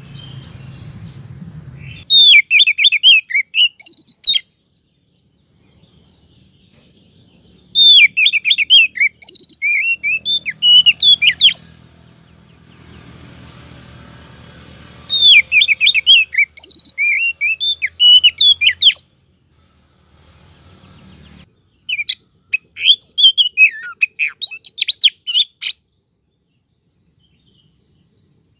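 Female oriental magpie-robin calling, the sweetener call used to lure males: four bouts of rapid, varied chattering notes, each a few seconds long, with pauses between them.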